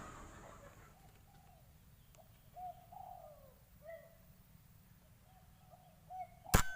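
Spotted dove (tekukur) cooing, a run of short low notes, then a single sharp air rifle shot near the end.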